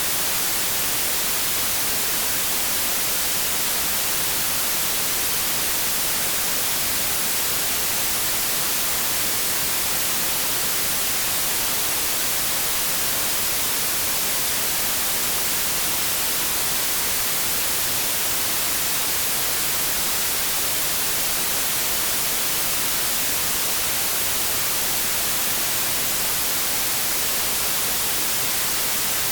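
Steady, unchanging white noise: an even hiss, strongest in the high frequencies.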